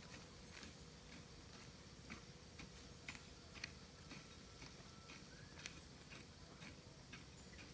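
Near silence with faint, irregular clicks, about two or three a second.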